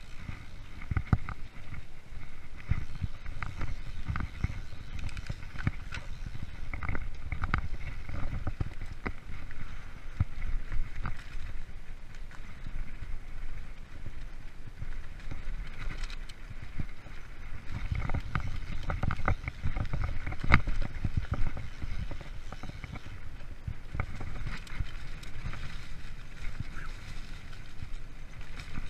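Freeride mountain bike rolling over a forest trail: a low rumble of tyres on the ground, with irregular clicks and rattles as the bike goes over bumps.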